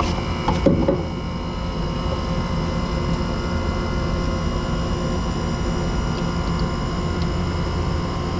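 Steady mechanical drone with a low hum and several constant high tones, like running machinery, with a few short clicks and knocks in the first second.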